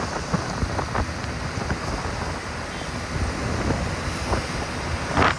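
Wind rushing over the microphone of a moving motorbike, a steady noisy roar mixed with road and traffic noise, with a brief louder gust near the end.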